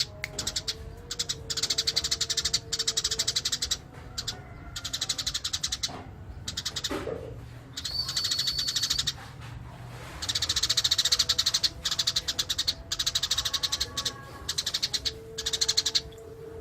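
Eurasian tree sparrow chattering in full song: runs of very rapid, buzzy chirps lasting a second or two, with short breaks between them.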